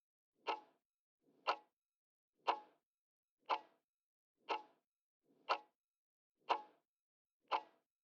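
Clock-style ticking of a quiz countdown timer sound effect: eight short, sharp ticks, one each second.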